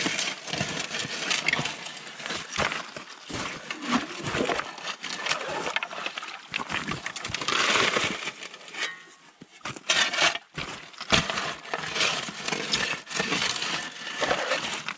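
Shovel digging into stream gravel: scraping and crunching with stones clattering in quick, irregular knocks.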